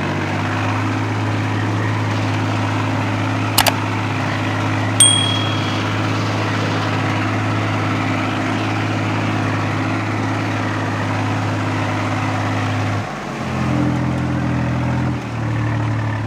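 Tractor diesel engine running at a steady, even speed, its note shifting about thirteen seconds in. A sharp click comes at about three and a half seconds, and a metallic clink with a short ring at about five seconds.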